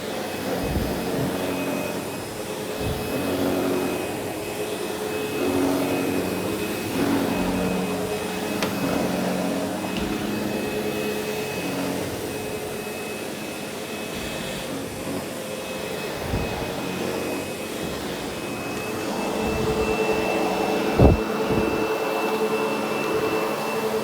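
Sebo X8 upright vacuum running over polyester carpet: a steady high motor whine over a lower hum that shifts in pitch and loudness. A sharp knock about 21 seconds in.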